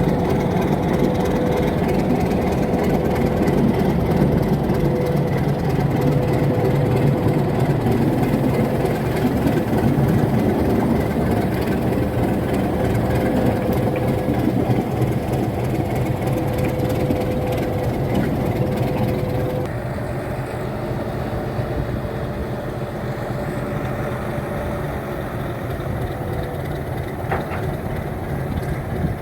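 Alco RS8 diesel-electric locomotive's engine running steadily, with a steady whine over the engine note. About two-thirds of the way through, the whine stops and the engine sound drops a little.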